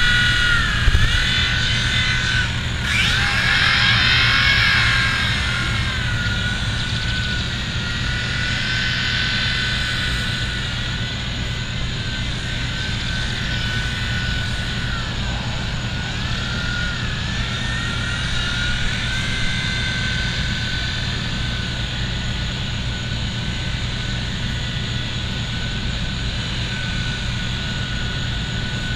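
Small electric motors of a V911 micro RC helicopter whining steadily in flight. The pitch dips and rises several times with throttle changes, most clearly about three to five seconds in.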